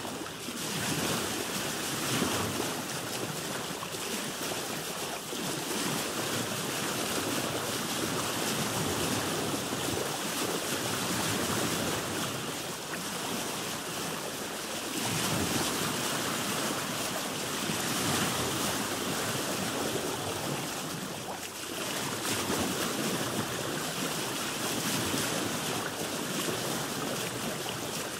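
Sea waves washing around a boat, heard from on board: a continuous rushing of water with some wind, swelling and easing every few seconds.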